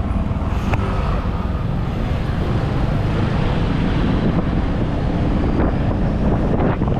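Wind buffeting the microphone on a moving motorbike, a steady noise heavy in the low end, with the motorbike and traffic running underneath.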